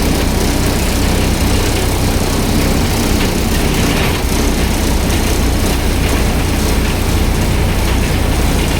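Cabin noise inside a Maharashtra State Transport bus on the move: the engine's deep rumble under a loud, steady din of road and body noise, the 'horrible' inside sound of the bus.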